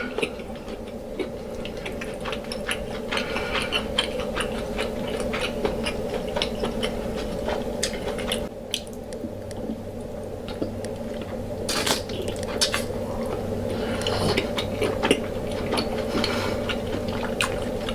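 Close-miked eating of deshelled seafood boil in sauce: wet squishing and chewing with many small clicks and taps, over a steady low hum.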